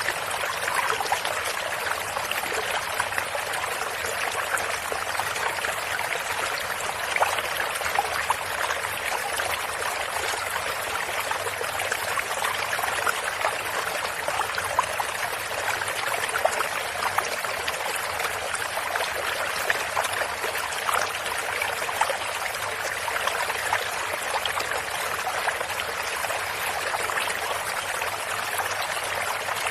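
Stream water running steadily over stones, a continuous splashing rush with small bright trickles and spatters.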